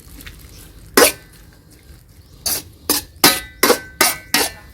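A metal spoon knocking against a cooking pot: one knock about a second in, then a quick run of about seven knocks with a slight metallic ring.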